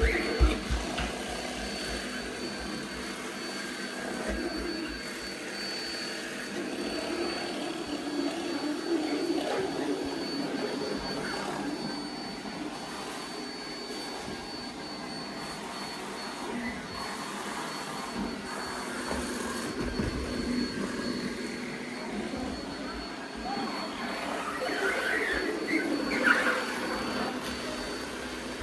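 Bissell SpinWave robot vacuum running steadily with a thin, constant high whine while it picks up Orbeez gel beads.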